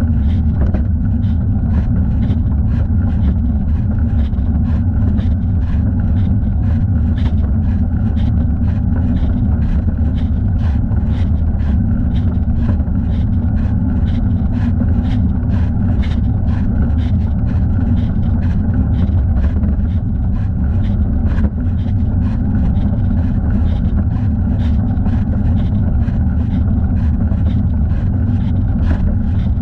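Steady low wind rumble on a thigh-mounted camera's microphone while riding a bicycle, with faint regular ticks about two to three times a second.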